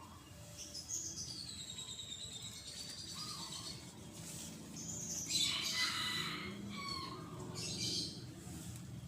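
Birds chirping and calling: thin whistled notes glide downward in the first few seconds, then louder, harsher chirps come about five seconds in and again near eight seconds.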